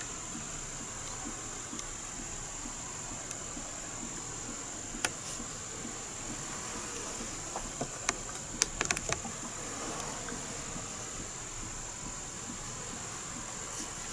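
Steady high-pitched insect trill over a constant hiss of rain, with a single sharp tap about five seconds in and a quick cluster of taps about eight to nine seconds in.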